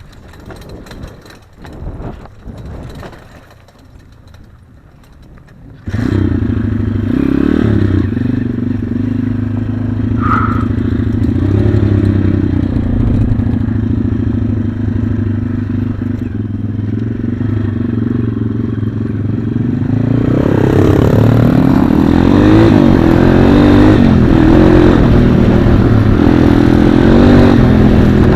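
Single-cylinder four-stroke pit bike engine. A few quieter knocks and handling noises, then about six seconds in a running engine comes in abruptly and carries on loud and steady, with uneven revving and wavering pitch in the last third.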